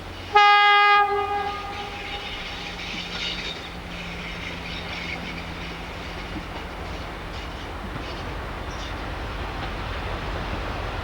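A diesel train's horn sounds one short, loud blast, which echoes away. The diesel train then runs steadily, its rumble growing slightly louder.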